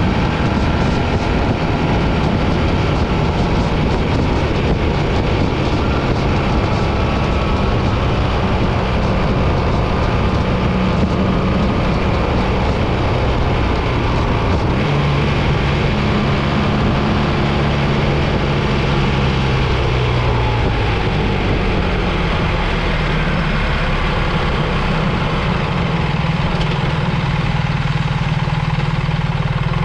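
BMW GS1300 motorcycle's boxer-twin engine running on the move under heavy wind and road noise. The engine note steps to a new pitch a couple of times, about halfway through and again a few seconds later.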